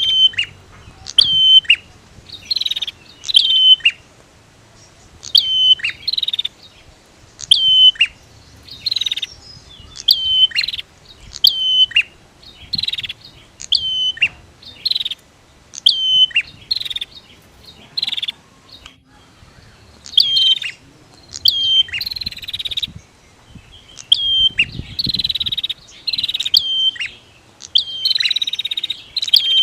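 Male and female prinias (prenjak) calling: sharp, high, chirping notes repeat about once a second, mixed with buzzy rattling calls that grow denser in the second half.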